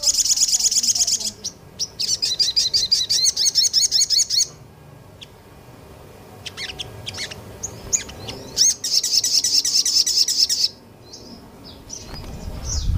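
Small songbird singing fast, high-pitched trilled bursts of rapidly repeated notes, the 'nembak' style of song. There are three long bursts, one at the start, one about two seconds in and one near the end, with scattered short chirps between them.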